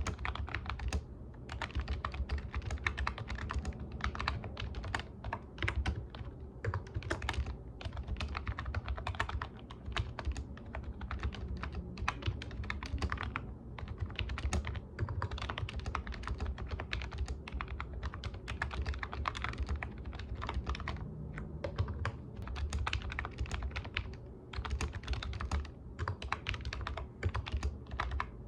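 Continuous typing on a computer keyboard: rapid, irregular key clicks with short pauses between bursts, over a low steady hum.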